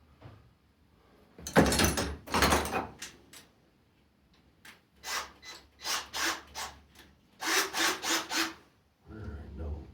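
Hand tools being rummaged through for a drill bit or socket: scrapes and clatters that come in three clusters, the loudest about two seconds in.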